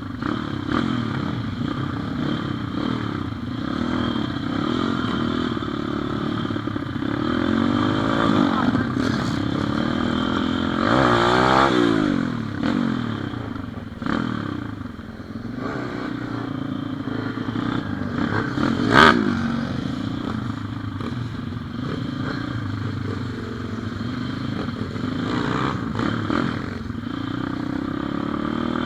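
Pit bike engine running while riding, its pitch rising and falling as the throttle opens and closes, with rattling and one sharp knock about two-thirds of the way through.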